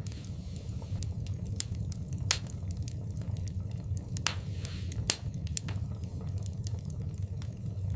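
Wood fire burning in a fireplace: a steady low rumble of the flames with irregular sharp crackles and pops, the loudest a little after two seconds in and about five seconds in.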